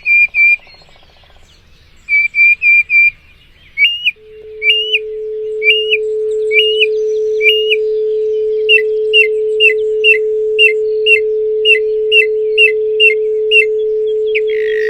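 Songbird singing in repeated short whistled notes, first in quick trills, then as a steady series of about two notes a second. About four seconds in, a steady pure 432 Hz tone fades in and holds beneath the birdsong.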